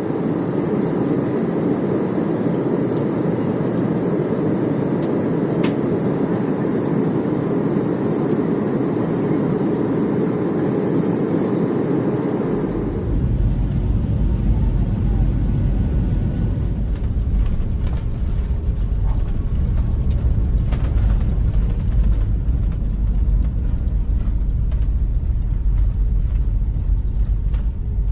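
Steady engine and airflow noise inside an Airbus A320 cabin. About halfway through it changes abruptly to a deeper, heavier low rumble.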